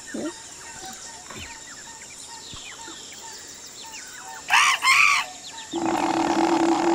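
Sound-designed forest ambience with small birds chirping. About four and a half seconds in come two loud rising-and-falling bird calls in quick succession, and near the end a steady buzzing hum starts.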